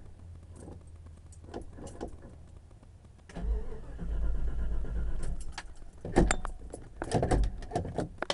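Starter cranking the cold AMC 360 V8 of a 1989 Jeep Grand Wagoneer for about two seconds without the engine catching, then a few sharp knocks and clicks near the end.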